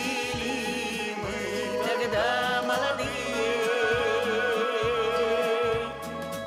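A song with long notes sung with vibrato over a steady bass accompaniment, with a short softer passage near the end.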